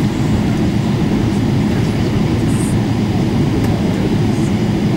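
Cabin noise inside a Boeing 777-300ER taxiing on the ground: a steady low rumble of the wheels and airframe with the engines at idle, and a few faint light rattles.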